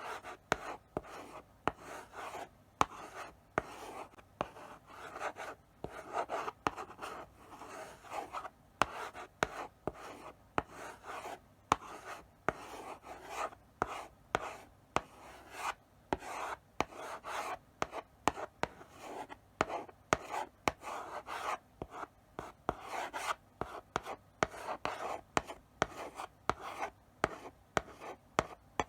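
Chalk writing slowly on a blackboard: a steady run of short scratching strokes with sharp taps as the chalk meets the board between strokes.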